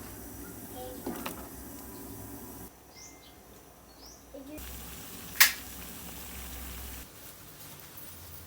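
Quiet background with two short rising bird chirps a little after the middle, and one sharp knock about five seconds in, the loudest sound. The background noise changes abruptly several times.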